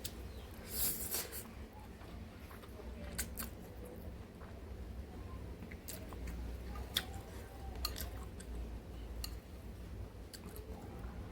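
Close-miked eating sounds: chewing a mouthful of spicy ramen noodles, with a short noisy burst about a second in and scattered small clicks.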